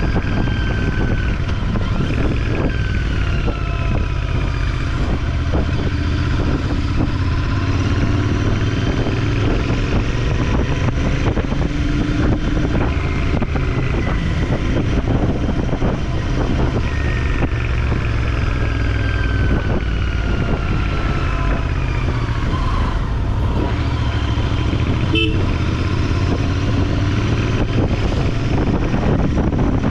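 Motorcycle engine running while riding, its pitch rising and falling slowly with speed, over a steady low rumble and wind rush on the microphone.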